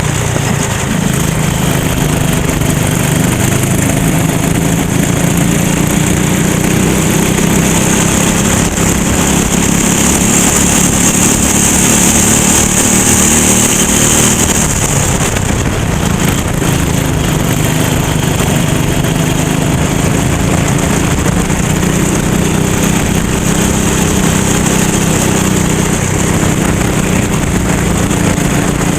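Go-kart engine running hard, its pitch dropping and climbing again as it slows for corners and accelerates out, with a steady high hiss over it.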